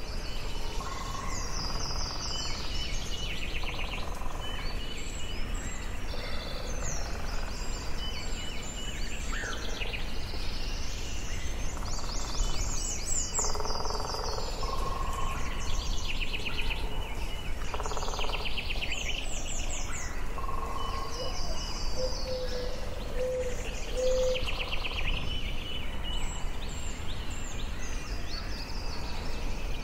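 Forest ambience with several songbirds singing and chirping over one another, rapid trills and repeated high notes, over a steady background hiss. A short run of low, even notes comes about two-thirds of the way through.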